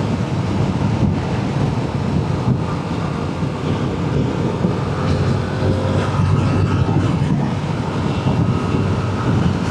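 Motorcycle riding at road speed: steady engine and road noise, with wind buffeting on the rider-mounted microphone.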